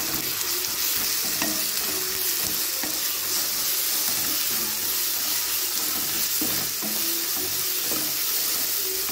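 Sliced onions and ginger-garlic paste sizzling steadily in hot oil in a nonstick kadai, stirred continuously with a spatula that scrapes the pan now and then. The paste is being sautéed until its raw smell is gone.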